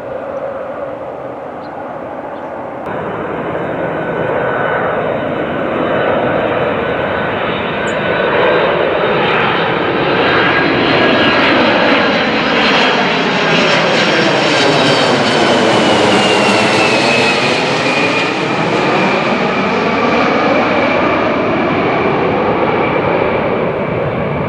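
Jet airliner passing low overhead. Its engine noise builds to a peak around the middle, and a high whine falls in pitch as it goes by. The sound stays loud as the plane moves away.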